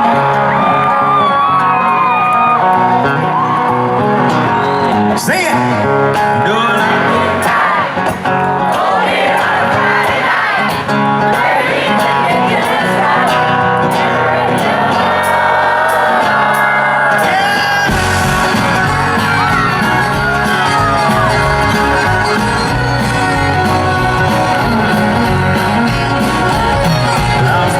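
Live country band playing, with singing and some crowd whoops, as heard in an audience recording. The low end grows fuller about two-thirds of the way in.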